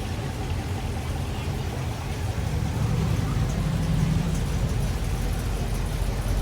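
Car engine running at low revs with a steady low rumble that grows louder about two and a half seconds in.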